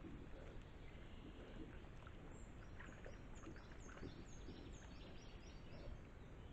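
Faint forest ambience with a low steady hiss; about two seconds in a songbird sings a run of short, high, descending notes lasting about three seconds.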